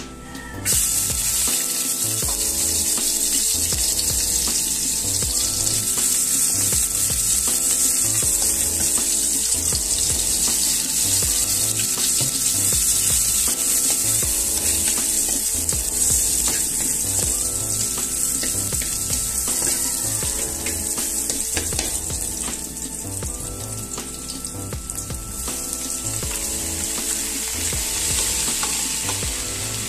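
Chopped onion and garlic dropped into hot oil in a wok, setting off a steady sizzle that starts suddenly about a second in and goes on as they fry and are stirred with a spatula.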